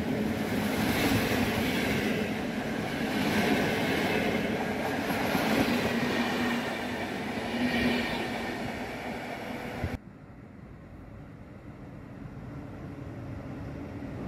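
PKP Intercity passenger coaches rolling past close by at speed: a steady rush of wheels on rail that swells about every two seconds. It cuts off suddenly about ten seconds in to a much quieter rumble of a distant train approaching, slowly growing louder.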